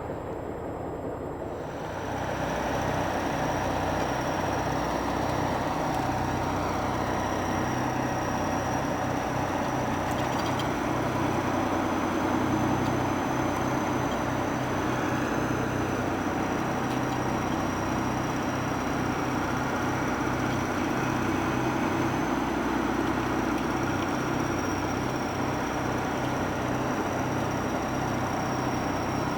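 Kirovets articulated tractor's diesel engine running steadily, with a thin high whine above it; it gets louder about two seconds in.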